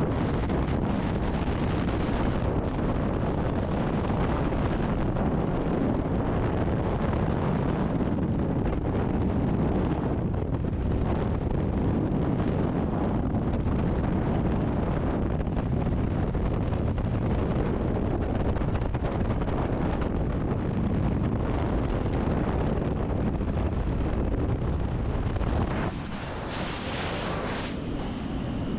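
Steady, loud rush of wind buffeting the microphone, easing slightly near the end.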